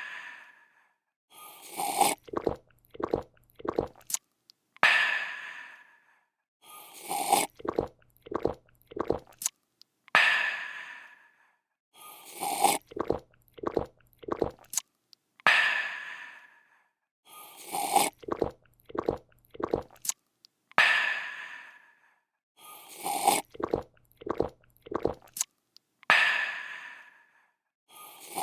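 Looped drinking sound effect: a slurp and a run of quick gulps, then a breathy refreshed 'aah', repeating about every five seconds.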